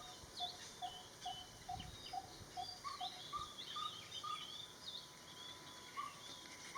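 Garden birdsong: one bird repeats a short low note about two to three times a second, stopping about three seconds in, while other birds chirp and twitter at a higher pitch throughout.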